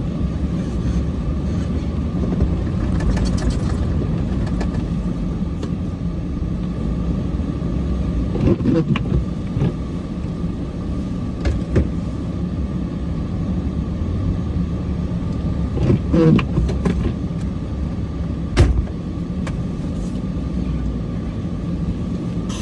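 Cummins diesel plow truck running under load while pushing snow: a steady low engine rumble. Sharp knocks and clunks come through now and then, the loudest near the end.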